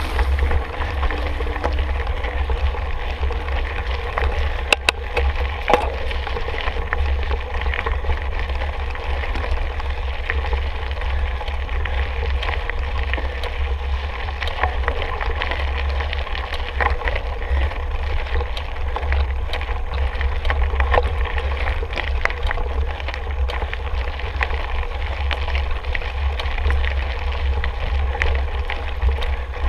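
Mountain bike riding along a trail: wind rumbling on the microphone, with scattered clicks and rattles from the bike and a sharper knock about five seconds in.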